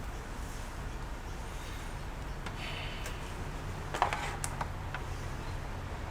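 A few small, sharp clicks and taps of laptop parts being handled, bunched together about four seconds in, over a low steady hum.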